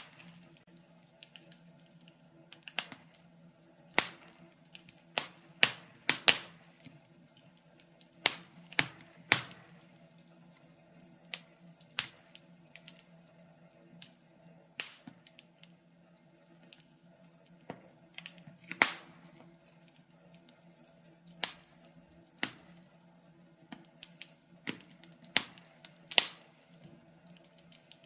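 Wood fire in a fireplace crackling, with irregular sharp pops and snaps, a few of them louder than the rest. A faint steady hum runs underneath.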